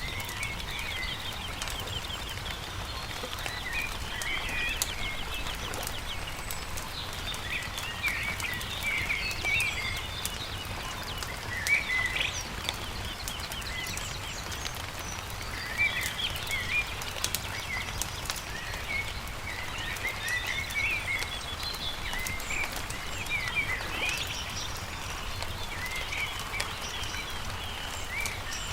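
Songbirds chirping and trilling in repeated short phrases over the scattered crackle and pops of a wood campfire, with a steady low rumble underneath.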